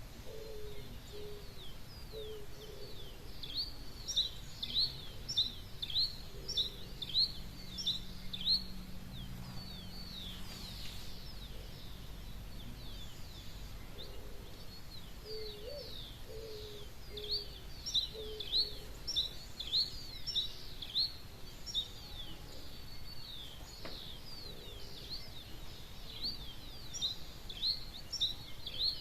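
Wild birds singing at dawn: runs of quick high chirps repeating over a steady low background hum, with a short series of lower, falling notes from another bird near the start and again about halfway.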